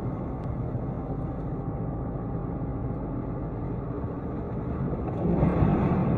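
Steady rumble of a moving vehicle's road and engine noise, picked up by a dash cam; it grows louder about five seconds in.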